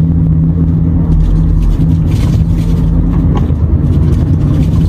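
Renault T480 truck's diesel engine and road rumble heard from inside the cab, a steady low drone with a few light knocks from the rough, broken road surface.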